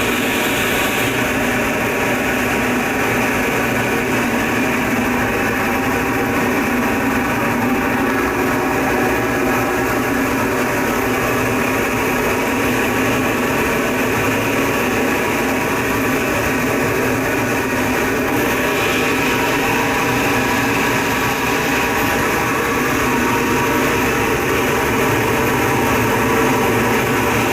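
TecQuipment GT100RS single-shaft kerosene turbojet running steadily: a loud, even rushing noise with several steady whining tones over it.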